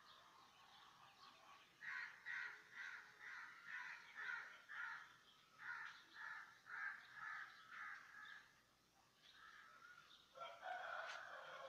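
A bird calling outdoors in a faint, steady run of short, harsh calls, about two a second for several seconds. Near the end a louder, fuller noise comes in with a sharp click.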